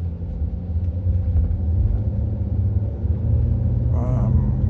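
Motorcycle engine running steadily while riding, a low even drone with wind and road noise from the bike.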